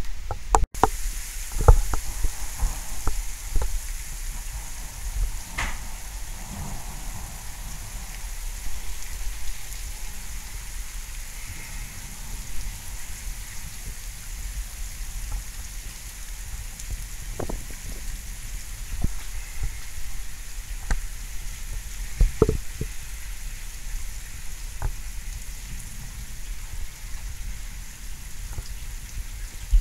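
Steady rain falling during a thunderstorm, with scattered sharp taps of drops landing close by.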